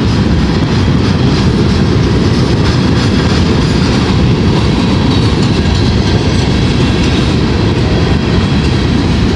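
CSX freight train's hopper cars rolling past at a grade crossing: a loud, steady low rumble of wheels on rail.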